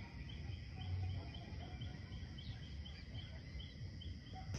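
Small birds chirping: a faint high chirp repeated evenly about three times a second over quiet outdoor background noise.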